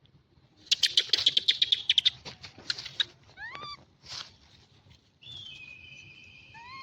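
Monkeys calling: a quick run of sharp, high chattering clicks about a second in, then short squeaky calls that sweep upward in pitch, and one long, steady high-pitched call near the end.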